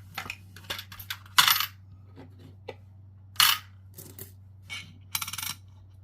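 Coins clinking against each other and a coin tray as they are handled, with sharp clinks about a second and a half and three and a half seconds in, lighter clicks between, and a short rattle near the end.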